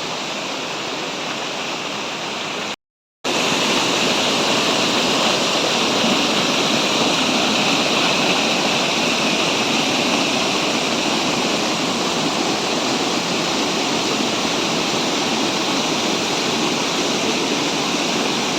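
Kanchendzonga Falls waterfall: a steady rush of falling water. It cuts out for a moment about three seconds in, then comes back louder.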